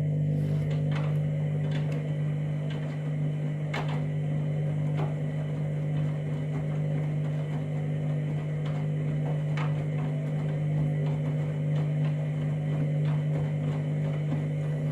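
Candy washing machine running its main wash, the drum motor giving a steady low hum with scattered light clicks and knocks.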